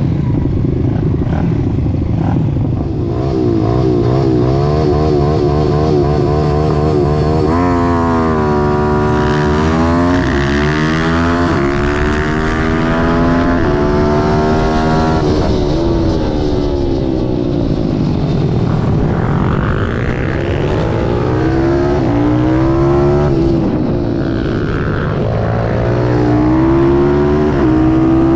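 Malcor Super Racer pit bike's Zongshen ZS190 single-cylinder four-stroke engine racing on track, its revs climbing and falling again and again, with several quick climbs that drop off sharply.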